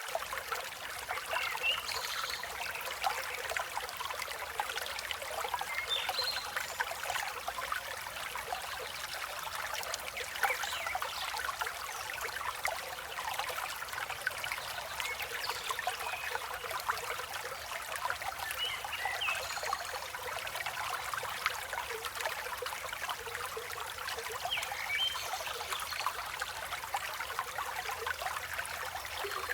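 Forest river flowing steadily, with brief, faint bird chirps scattered through it.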